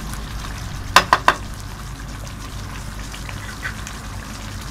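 Chicken pieces frying in their yogurt marinade in an aluminium pot, a steady sizzle, while the chicken cooks until its colour changes. About a second in, a wooden spoon knocks three times in quick succession against the pot.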